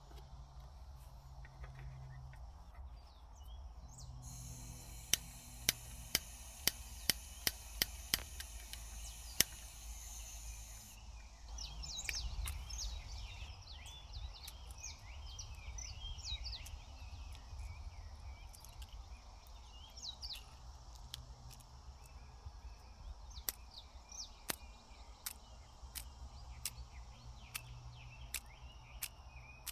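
Bush ambience in a state forest: many small birds chirping in quick rising and falling calls from about twelve seconds in, over a low steady rumble, with scattered sharp clicks, a quick run of them before the birds start.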